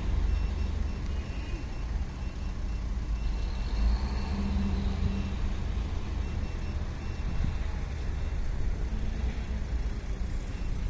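Low, steady rumble of car engines idling in a queue, with light traffic noise.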